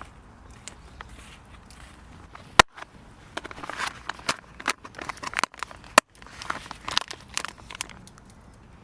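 Plastic food packaging crinkling and tearing as it is handled and opened, in irregular rustles with sharp clicks and one loud snap a few seconds in.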